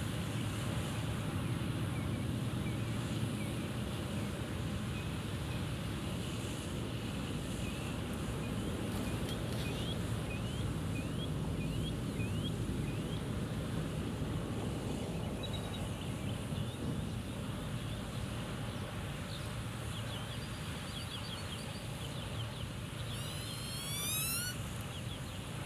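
Steady wind rumbling on the microphone, with birds calling over it: a run of short, rising chirps in the middle and a louder rising call near the end.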